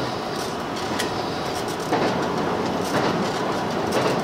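Running noise heard inside the passenger cabin of a JR 2700 series diesel limited express under way: a steady rumble of wheels and rails, with a sharp click about a second in, getting a little louder from about two seconds in.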